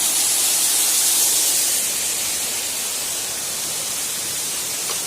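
Steady rushing of a waterfall: an even, unbroken noise, strongest in its high hiss.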